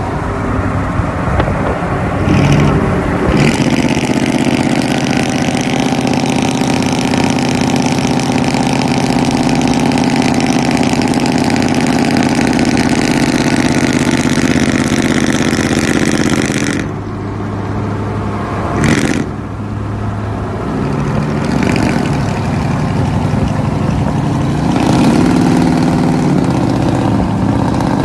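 Pickup truck engine running through a loud aftermarket exhaust, held at a steady note for much of the time. It drops back briefly about two-thirds of the way through, then runs on with its pitch rising and falling.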